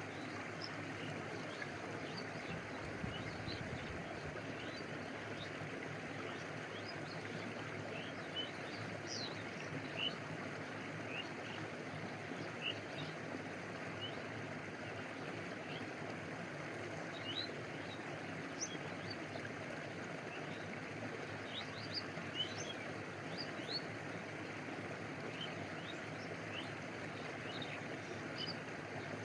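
A stream flowing steadily. Many brief, high, rising plinks of water lapping close by are scattered over it.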